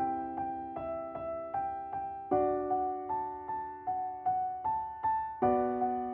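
Background piano music: a gentle arpeggiated melody, notes struck about two or three a second, the chord changing twice.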